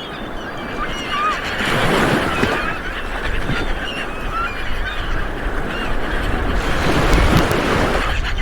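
Light waves washing onto a beach, swelling about two seconds in and again near the end, under many short calls from birds overhead. A low wind rumble on the microphone comes with the second swell.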